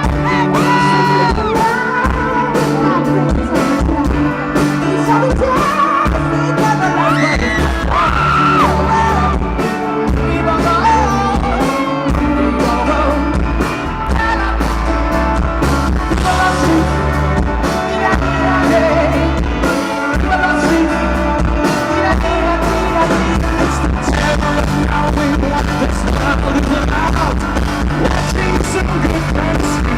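Live pop-rock band playing a song with a male lead vocal. The bass and drums come in heavier about eight seconds in, settling into a steady beat.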